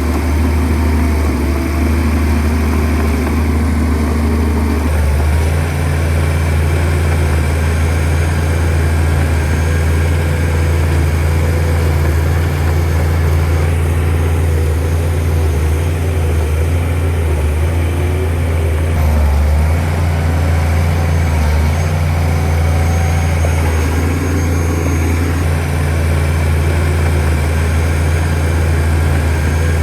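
Shantui DH17C2 bulldozer's diesel engine running steadily under work, its note shifting about five seconds in.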